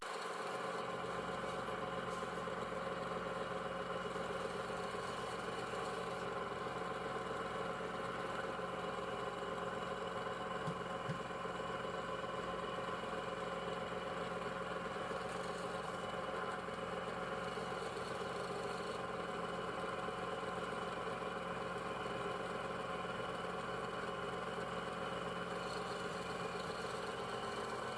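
A machine running steadily: an even hum of several steady tones that does not change.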